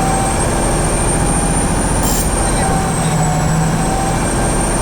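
Loud, steady engine noise with a high, slightly wavering whine above it and a lower hum.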